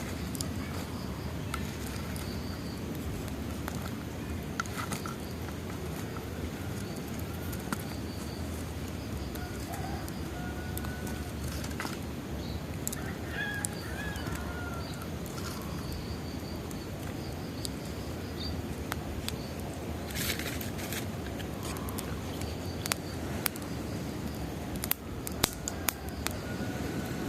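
Wood bonfire crackling, with sharp pops scattered over a steady low rush of burning, the pops louder and more frequent near the end. Birds chirp in the background.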